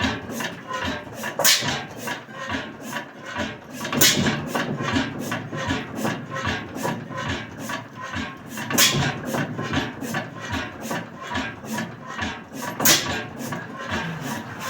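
1898 Crossley hot-tube-ignition gas engine running slowly, with a rapid steady clatter of its mechanism and a sharp bang from a firing stroke only every few seconds, at irregular spacing.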